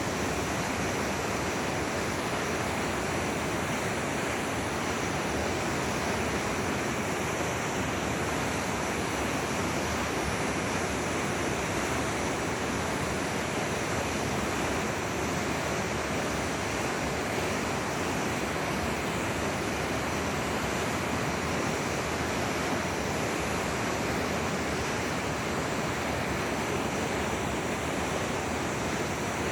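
Steady rushing of a flowing forest river, even and unbroken.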